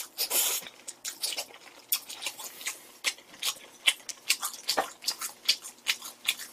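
Close-up wet chewing and lip-smacking of a mouthful of noodles: a quick, irregular series of small moist clicks, with a short slurp at the start.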